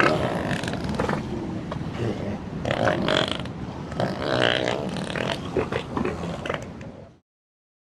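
An animal's rough, irregular calls, with a few short pitched cries among them, ending about seven seconds in.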